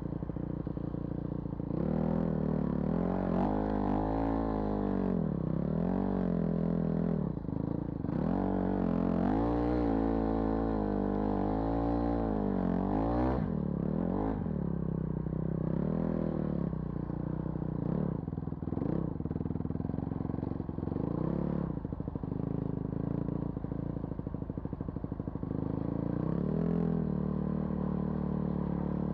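A vehicle's engine running under load, its revs rising and falling repeatedly, with scattered knocks and rattles.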